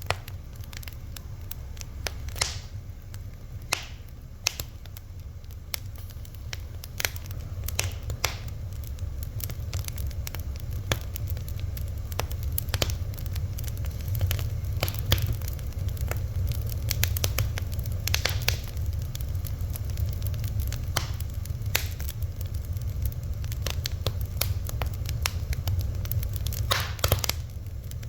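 Fire crackling, with irregular sharp pops and snaps, some close together and some spaced out, over a steady low rumble.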